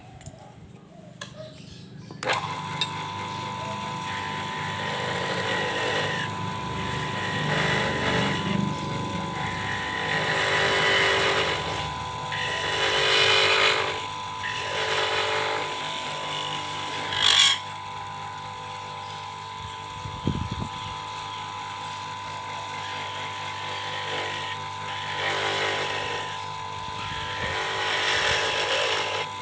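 A homemade lathe's electric motor starts about two seconds in and runs with a steady whine, while a cutting tool scrapes against a spinning PVC pipe in repeated swells. A short, sharp, loud scrape comes near the middle.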